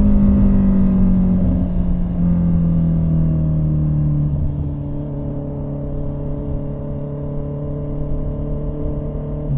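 Honda CB650R inline-four motorcycle engine through an SC Project slip-on exhaust, heard while riding. The engine note drops slowly as the revs fall, with a small step down about two seconds in. It gets a little quieter from about halfway.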